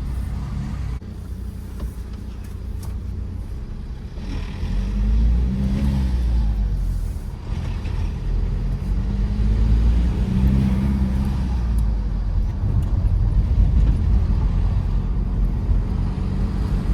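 Tata Safari Storme SUV's diesel engine running under way with road rumble, the engine note rising and falling a few times and getting a little louder about four seconds in.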